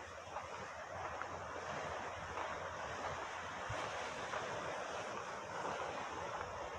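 Sea surf: waves washing onto a beach in a steady hiss that swells and eases, with some wind on the microphone.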